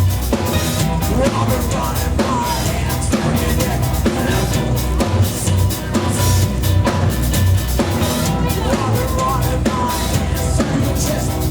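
Live band playing loud, drum-heavy music: a full drum kit with bass drum and snare hits over heavy bass lines.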